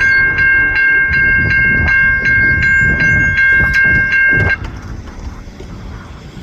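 Freight locomotive horn sounding a steady chord over the rumble of a passing train, with regular clicks about three times a second. The horn cuts off abruptly about two-thirds of the way through, leaving the quieter rumble of the train.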